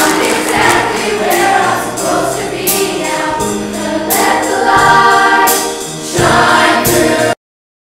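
Show choir singing in harmony over an instrumental backing, with sharp percussion hits; the sound cuts off abruptly near the end.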